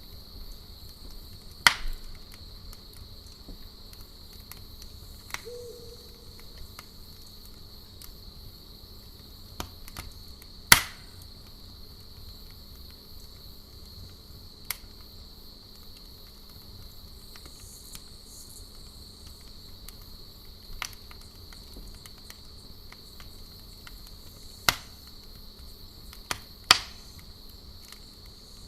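Campfire crackling, with sharp pops every few seconds; the loudest comes about eleven seconds in. Under it runs a steady high insect trill and a faint low hum.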